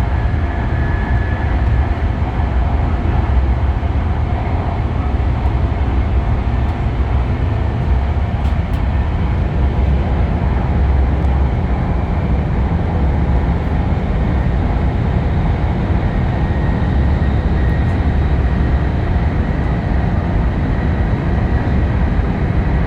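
Steady low rumble of a Hokkaido Shinkansen H5 series train running, heard inside the passenger cabin, with a faint high steady tone over it.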